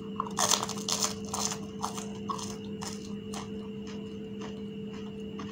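A crisp fuchka shell filled with tamarind water and potato mash being bitten and crunched in the mouth: loud crunching for the first second and a half, then softer crunches and chewing dying away about three and a half seconds in. A steady electrical hum sits underneath.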